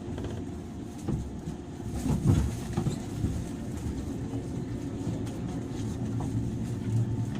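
Interior running sound of a JR 103 series electric train (motor car MoHa 103), a steady low hum, with a heavier low thud about two seconds in.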